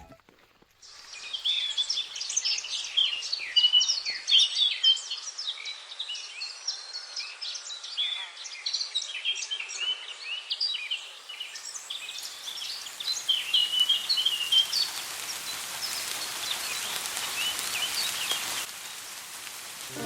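Many small birds chirping and singing over a steady hiss, starting about a second in and stopping shortly before the end.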